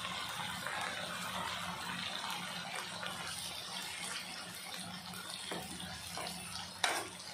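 Chopped onions and tomatoes sizzling steadily in hot oil in a steel pan while a slotted spatula stirs them, with one sharp knock of the spatula against the pan near the end.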